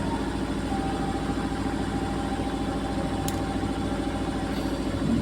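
Beko WMY81283LMB2 washing machine spinning. A steady motor whine sits over a fast, even pulsing from the drum, typical of an unbalanced load. There is one small click about three seconds in.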